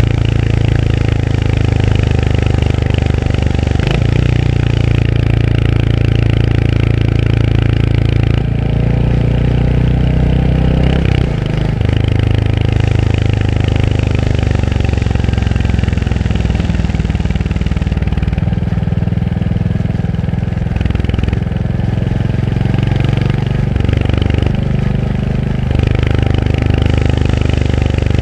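Royal Enfield Hunter 350's air-cooled 349 cc single-cylinder engine running under way, its pitch changing in steps several times as the throttle and gears change.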